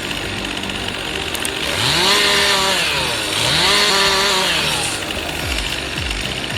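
Chainsaw revved twice. Each time the pitch rises, holds for about a second and drops back down, over a steady lower running sound.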